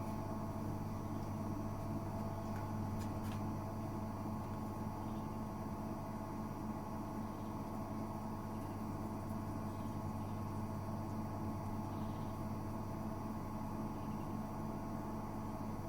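Gorenje UseLogic 65165 washing machine running with a steady, even motor hum. The pitch holds constant throughout.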